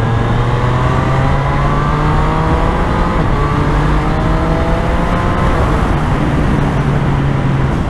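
Triumph Street Triple's three-cylinder engine accelerating hard, its pitch climbing over the first few seconds and then levelling off, heard over wind rush.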